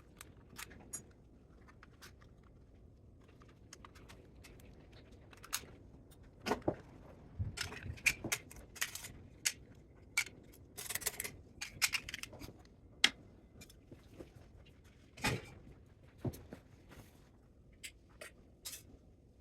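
Irregular clinks, knocks and scrapes of metal parts and tools being handled during the teardown of a scrap spot welder. The sounds are thickest in the middle, with a few sharp knocks standing out.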